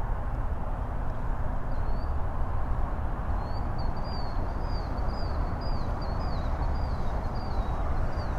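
Steady low outdoor rumble, with a small bird calling a quick run of short, high chirps from about two seconds in.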